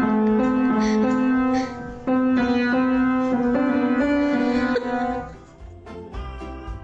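Keyboard instrument playing a simple tune of held notes, stopping about five seconds in. Quieter, livelier background music follows.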